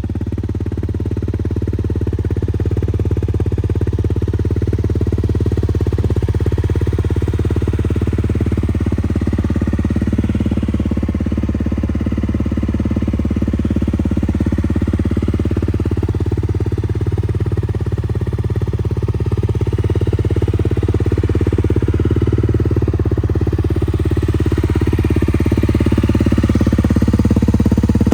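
2018 Honda CRF250L's single-cylinder four-stroke engine idling steadily through an FMF aftermarket exhaust, with only slight drifts in pitch.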